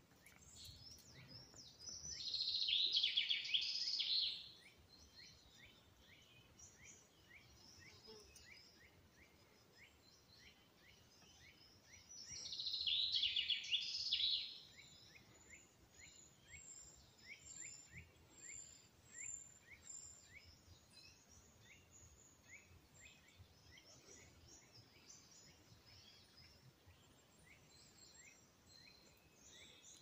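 Woodland birds singing. One bird close by sings two loud, rapid songs of about two seconds each, roughly ten seconds apart, while fainter birds keep up short repeated notes and thin high calls throughout.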